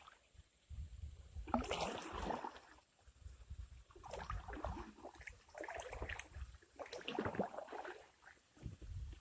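Kayak paddle strokes: the blades splash into and out of the water about five times, every second or two, over a low rumble of the hull.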